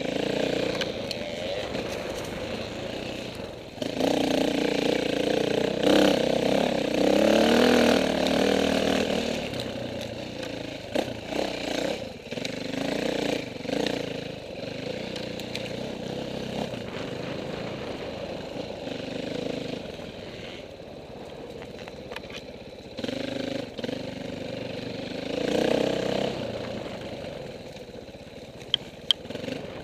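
Off-road dirt bikes racing past, engines revving up and down, loudest a few seconds in and again near the end, then fading to a more distant drone.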